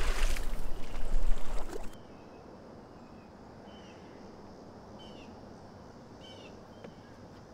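A loud splash into water lasting about two seconds, then a bird chirping a few times in short high notes.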